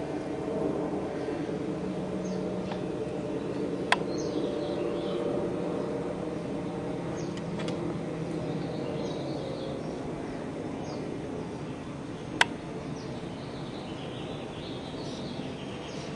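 Small birds chirping over a steady low hum, with two sharp clicks, one about four seconds in and one about twelve seconds in.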